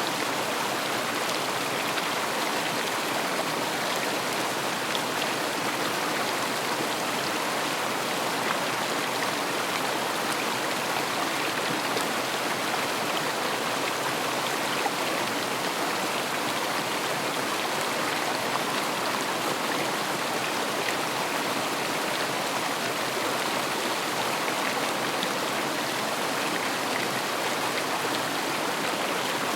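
River water flowing steadily, a constant rushing noise with faint splashes and droplets.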